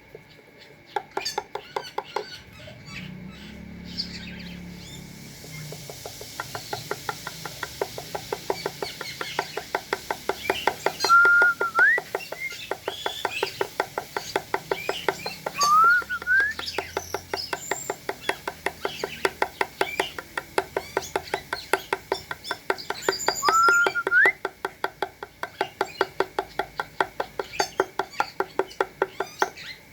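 Spotted doves at feed: a rapid, regular run of short clicks about three a second, with three short rising whistled bird calls.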